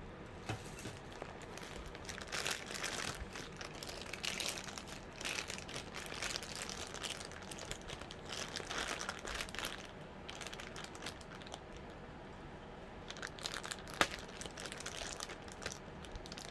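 Packaging of a diamond painting kit crinkling and rustling as it is opened and handled, in uneven spells, with one sharp click near the end.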